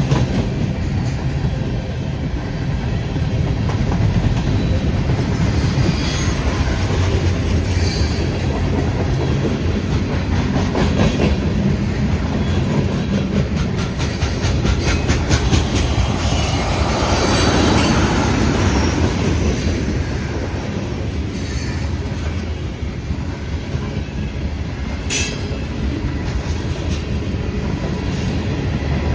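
Freight train cars rolling past at trackside: a steady rumble of wheels on rail with a regular clicking as the wheels cross the rail joints, swelling briefly past the middle, and one sharp high click near the end.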